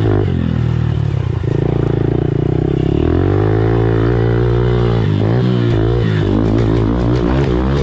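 Pit bike engine running hard as it is ridden, its pitch climbing and dropping with the throttle, with quick wavering rises and falls from about five seconds in.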